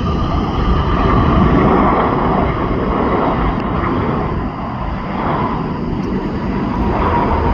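Jet airliner engines heard close by: a loud, steady rumble with a faint whine on top.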